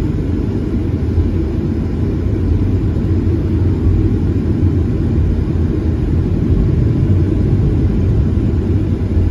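Airliner's engines making a steady low rumble.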